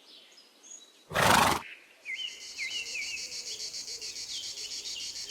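A foal snorts once, a short noisy blow about a second in. After that, insects keep up a steady, evenly pulsing buzz, with small birds chirping under it.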